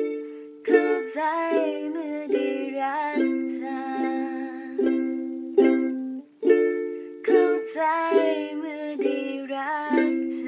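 Instrumental passage of a Thai pop ballad played on a strummed acoustic string instrument: chords struck roughly once a second, each ringing on, with a melody line over them.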